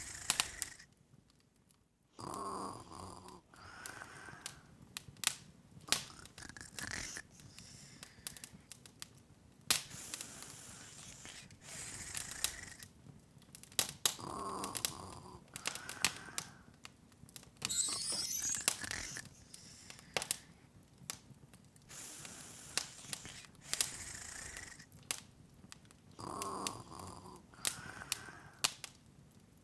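Open wood fire crackling, with frequent sharp pops and snaps over a soft hiss. A softer breathing-like sound comes back every twelve seconds or so, and a brief rising sparkle sounds about halfway through.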